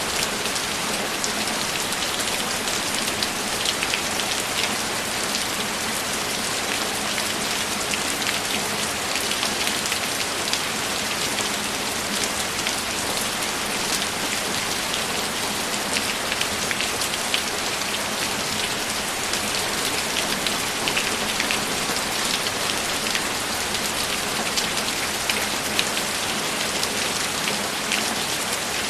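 Steady rain falling, an even hiss with many small, sharp drop taps.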